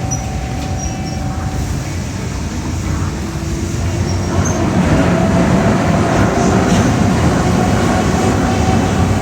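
A vehicle running, heard from on board: a steady rumble with a faint whine that grows louder about four seconds in.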